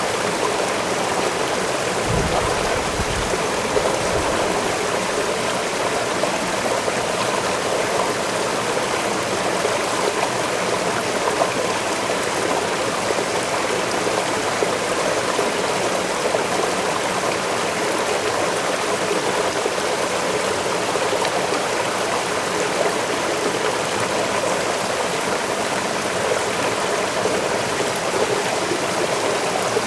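Forest waterfall and stream running: a steady, dense rush of falling and flowing water. A brief low rumble comes through about two seconds in.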